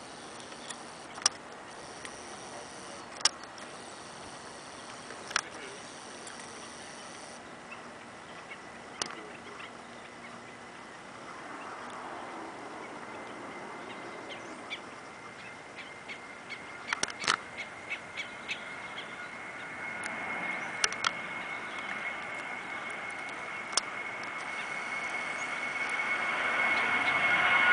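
Boeing 737's jet engines: a low, steady rush with scattered sharp clicks, then in the last several seconds a steady whine and rush growing louder as the engines spool up for takeoff.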